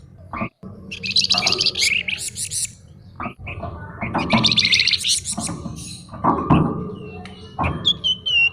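Songbird known to bird-keepers as the flamboyan, singing in bursts of fast chattering trills. Near the end comes a quick series of short, downward-slurred whistled notes.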